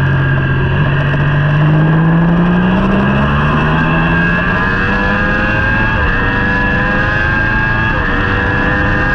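Racing motorcycle engine heard onboard at speed: the revs dip early, then climb steadily as it pulls hard, with quick shifts up through the gears about six and eight seconds in.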